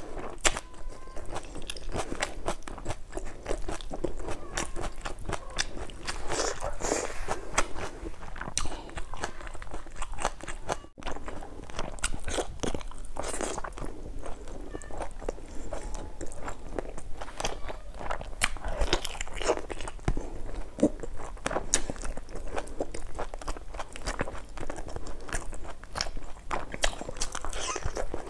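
Close-miked eating: a person chewing and biting food with crunchy, wet mouth clicks throughout and louder crunchy spells several times.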